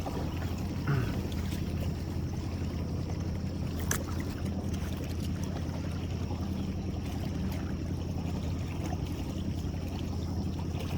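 Boat motor running steadily at idle while a trotline is worked, with a short knock about a second in and a sharp click about four seconds in.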